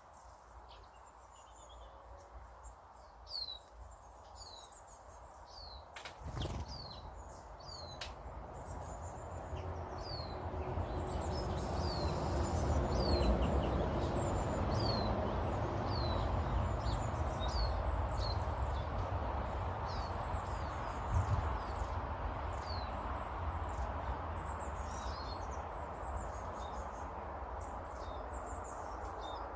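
Small garden birds chirping, a steady run of short calls that each slide downward in pitch. Under them a low rumbling noise builds up about a third of the way in and stays loud.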